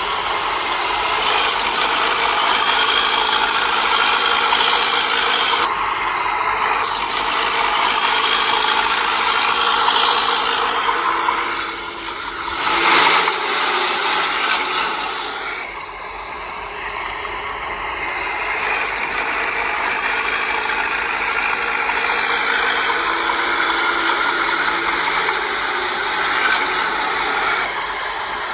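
Heavy diesel earthmoving machinery running with steady engine drone and metallic clanking and rattling, like a bulldozer's tracks, with a short louder rush of noise about halfway through.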